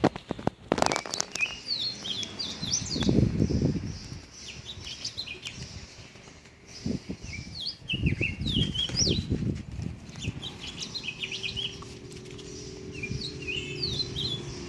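Small birds chirping and twittering in quick, short calls, mixed with bursts of low rustling and thumping close to the microphone. A faint steady hum joins near the end.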